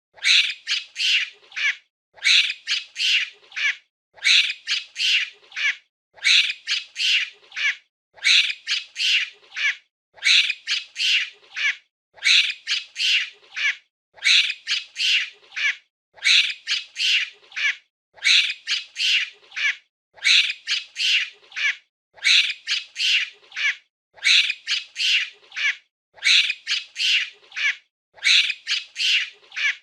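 Monkey chattering: a burst of rapid, high-pitched calls about every two seconds, with short silences between, the same short recording looped over and over.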